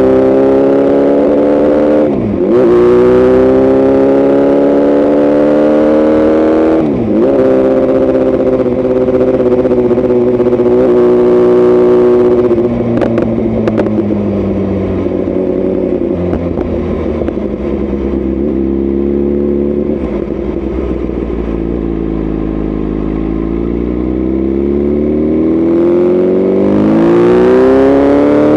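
BMW S1000RR inline-four with a tuned, opened-up exhaust, accelerating hard. The revs drop sharply at quick upshifts about two and seven seconds in. Past the middle the revs fall away for several seconds as it slows, with a few sharp cracks as the throttle closes, then climb again near the end.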